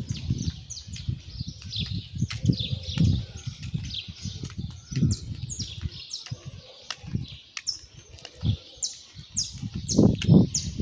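Small birds chirping over and over in short, high, falling notes, with irregular low bumps and rumble underneath.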